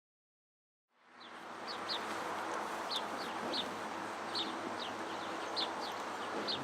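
A steady background murmur fades in after about a second, with short, high, falling bird chirps repeating about once a second, often in pairs.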